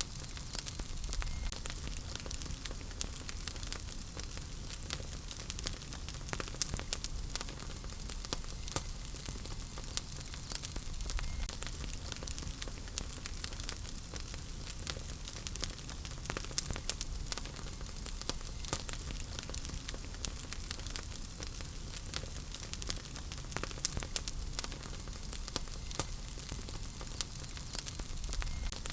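Wood fire burning in a fireplace: a steady hiss with many irregular sharp crackles and pops from the burning logs, over a low rumble.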